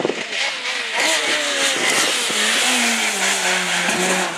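Peugeot 306 Maxi rally car's naturally aspirated four-cylinder engine revving hard, its pitch jumping up and down through quick gear changes, with a few sharp cracks. Past the middle the engine note falls slowly as the car comes off the throttle.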